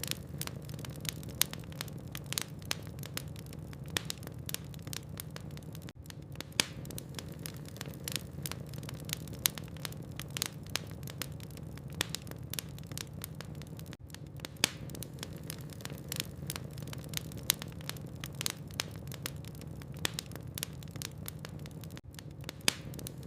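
Wood fire burning in a fireplace, with irregular sharp crackles and pops from the burning logs over a steady low hum.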